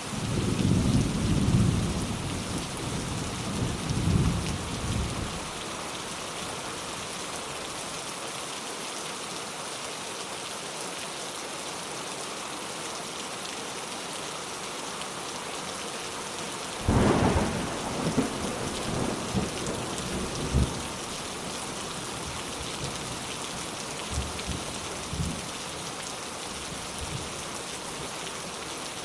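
Steady heavy rain with two rolls of thunder: one rumbling through the first few seconds, and a sharper crack about halfway through that rumbles on for a few seconds.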